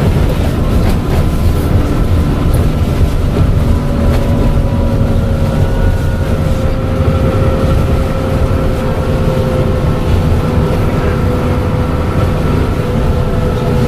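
Dennis Trident double-decker bus engine running steadily, a low rumble with a thin turbo whistle above it that slowly falls in pitch.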